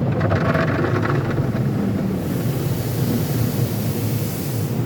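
Automatic tunnel car wash heard from inside the car: a steady low rumble of the wash machinery, with a scrubbing patter on the body in the first second or so. A hiss of water spray on the car starts about two seconds in and cuts off suddenly near the end.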